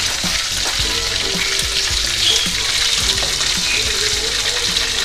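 Fish frying in hot oil in a wok, a steady dense sizzle.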